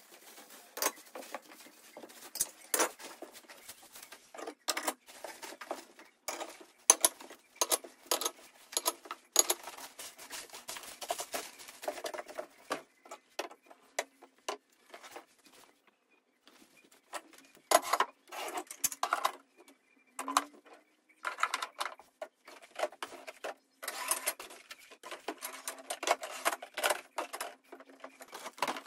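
Household belongings being handled and set in place: a busy run of light clicks, taps and knocks mixed with rustling, with a short lull about halfway through.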